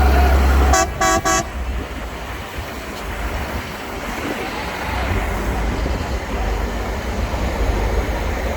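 Three short toots on a horn in quick succession about a second in, cutting through a heavy low rumble, with rumbling vehicle noise continuing afterwards.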